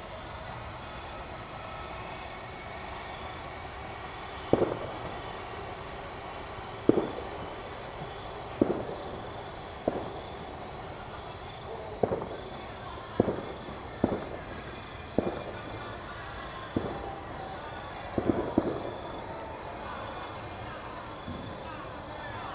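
Crickets chirping steadily in a regular high pulse, with about ten distant fireworks bangs going off irregularly over it, a quick pair of them near the end.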